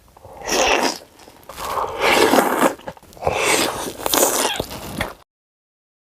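Close-miked crunching bites and chewing of crisp food in three loud crackly bouts, cutting off abruptly about five seconds in.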